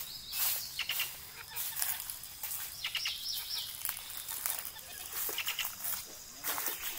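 Birds chirping in woodland: short high calls about a second in and a cluster around three seconds, over a steady high hiss of background ambience.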